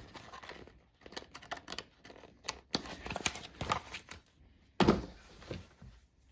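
Paper calendar pages being handled and turned: irregular rustling and small clicks, with a louder thump about five seconds in.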